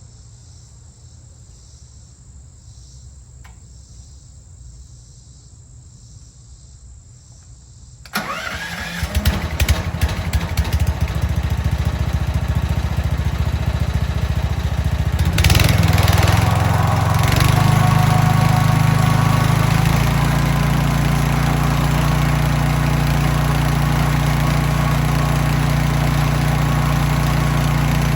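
Crickets chirping, then about eight seconds in the Mechmaxx sawmill's gas engine starts and runs. It picks up speed about halfway through and settles into a steady run.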